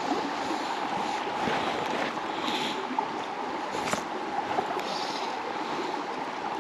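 Steady rushing and rippling of a flowing river, with a couple of faint knocks.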